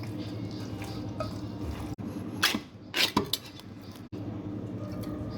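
A metal utensil clanks against a cooking pan three or four times in quick succession about halfway through, over a steady low hum.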